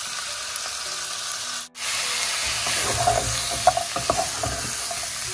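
Chicken pieces sizzling in ghee in a nonstick pan, with a brief break about a second and a half in. After it the sizzle is louder, and a wooden spoon stirs and scrapes through the pieces with scattered knocks.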